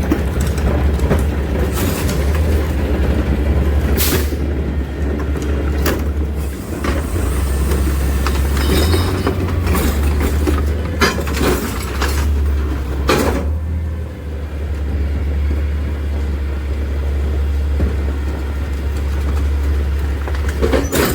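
Freightliner McNeilus rear loader garbage truck's diesel engine running with a steady low rumble, with several short, sharp clanks or hisses from the truck standing out every few seconds.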